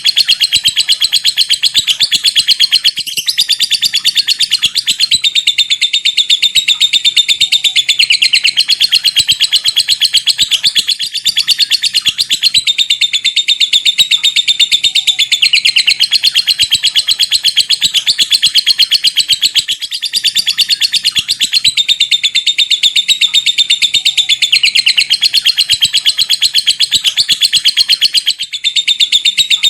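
A fighter lovebird sings the long, unbroken chattering song that keepers call 'ngekek panjang'. It is a fast, high-pitched stream of rapid 'typing' (ngetik) notes. The stream breaks off only briefly every several seconds.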